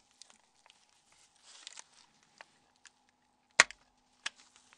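Small plastic clicks and light scraping as the clips of a Nokia 6110 Navigator phone's cover are pried open, with a sharp snap about three and a half seconds in and a smaller click shortly after.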